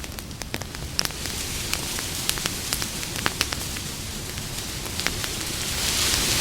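Campfire crackling: frequent sharp, irregular pops and snaps over a steady low rumble and hiss of burning wood. A louder hiss swells up near the end.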